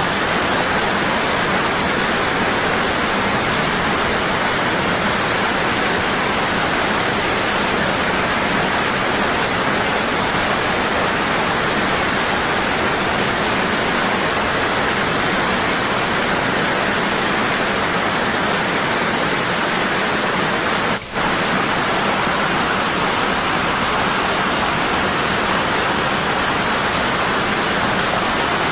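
Waterfall falling strong and constant, a steady rush of water. There is one momentary dip in level about two-thirds of the way through.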